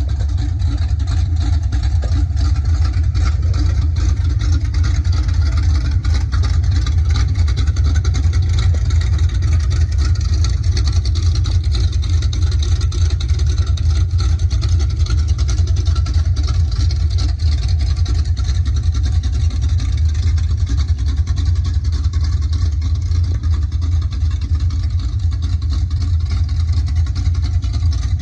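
Loud car engine running steadily with a deep, rapidly pulsing low rumble, no clear revving.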